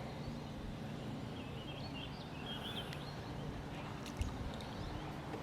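Outdoor pond-side background noise with a small bird twittering faintly in short chirps during the first few seconds, and a soft knock about four seconds in.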